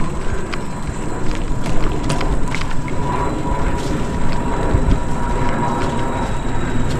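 Mountain bike being ridden along a trail: a continuous rumble of tyres and wind on the bike-mounted microphone, with scattered rattles and clicks from the bike over bumps. A faint steady high whine runs through the middle for a few seconds.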